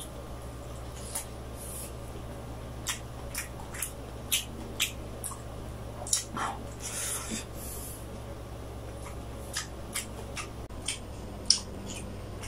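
Close-miked eating sounds: wet chewing and lip smacks, short sharp mouth clicks at irregular intervals. A longer soft tearing, squelching noise comes just past the middle as the glazed roast chicken is pulled apart by hand.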